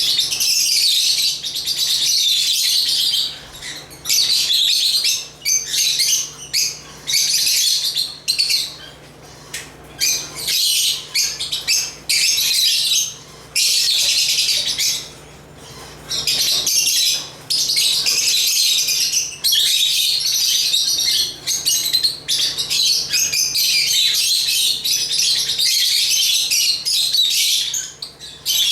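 African lovebirds chirping and squawking, a dense shrill chatter in bursts of a second or few, with brief pauses between them. A faint steady hum lies underneath.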